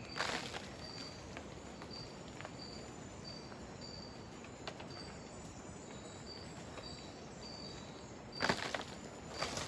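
Rainforest ambience with a short, high-pitched chirp repeating about twice a second over a steady background hiss. Bursts of rustling or crunching come just after the start and again near the end.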